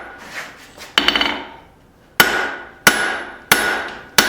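Hand hammer striking hot steel on an anvil, forging a tong's reins, with a short ring after each blow. There is one blow, a pause of about a second, then four evenly paced blows.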